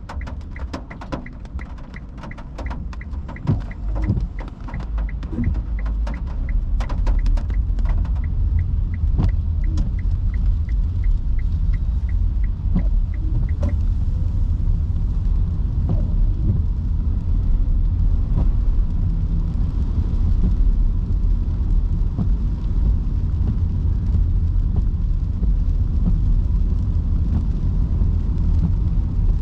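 Cabin sound of an electric Nissan Leaf driving on wet roads in heavy rain: a steady low tyre-and-road rumble that grows louder after a few seconds, with scattered taps of rain on the car. A regular ticking about two times a second, the turn-signal indicator, stops about halfway through.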